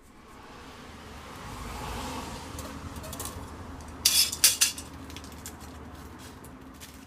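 Metal cookware being handled: a quick run of four or five sharp clinks about four seconds in, after a hiss that swells and fades over the first couple of seconds.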